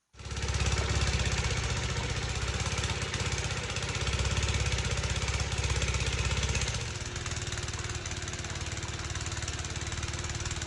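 Gas snowblower's small engine running steadily, with fast, even firing pulses. It starts abruptly and eases a little about two-thirds of the way through.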